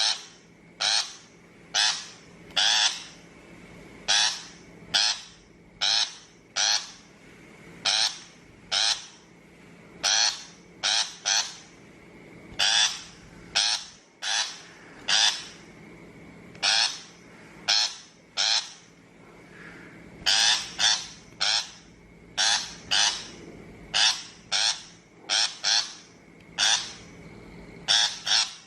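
Shrike giving harsh, rasping calls in quick clusters of two or three, repeated about once a second.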